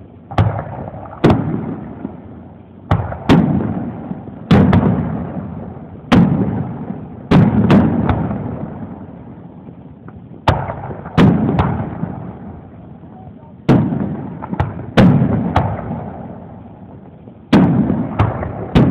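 Fireworks display: aerial shells bursting overhead, about a dozen sharp booms at irregular intervals, each trailing off in a rumbling echo.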